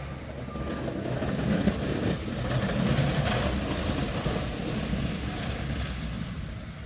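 Heavy snowplow truck engine rumbling as the truck goes by, swelling to its loudest about two to three seconds in and then fading away.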